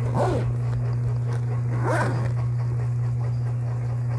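A zipper on a fabric sling bag being pulled twice, once at the start and again about two seconds in, over a steady low hum.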